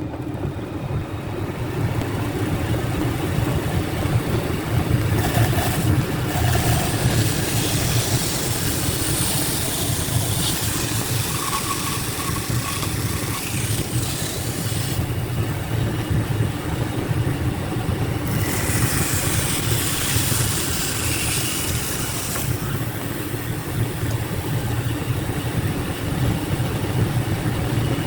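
A machine running steadily with a low hum and a hiss above it. The hiss changes several times, dropping away and coming back.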